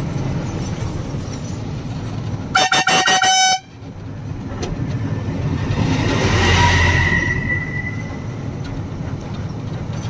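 Lorry horn sounded as a quick run of short toots for about a second, about two and a half seconds in, over the steady running of the truck's engine and road noise; later the road noise swells and fades, peaking around six to seven seconds in.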